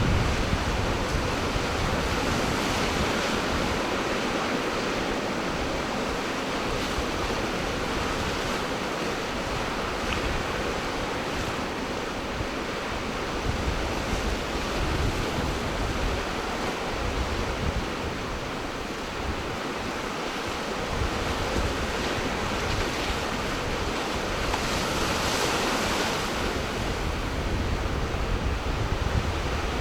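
Ocean surf washing onto the shore in a steady roar that swells now and then, with wind gusting across the microphone.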